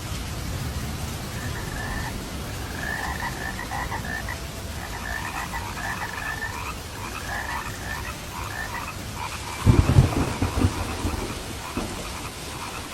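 Steady rain falling while frogs croak in a repeated chorus. About ten seconds in, a loud, deep thunderclap breaks in and rumbles away over a second or two.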